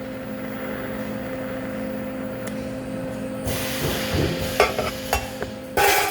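TIG welding arc hissing over a steady electrical hum. The hiss grows louder about halfway through, and a few sharp clicks come near the end.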